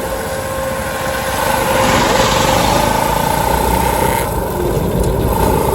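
Motorcycle running steadily while being ridden, with a continuous rush of wind and road noise.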